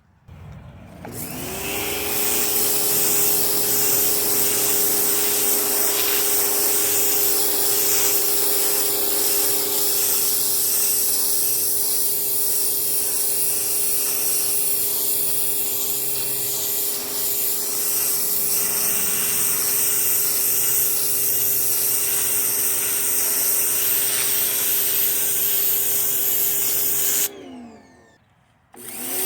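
Greenworks 2000 psi electric pressure washer spinning up and running steadily, its motor hum under the hiss of the water spray. Near the end the motor winds down and stops, the pitch falling, then starts up again about a second and a half later, as happens when the trigger is released and squeezed again.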